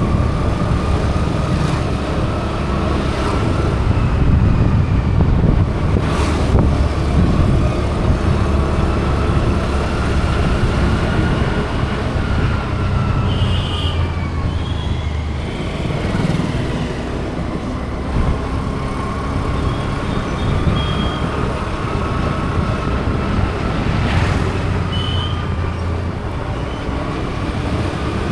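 Vehicle engine and road traffic noise while moving through city streets: a steady low rumble with a faint whine that slowly rises and falls in pitch. Short high beeps sound briefly near the middle and again near the end.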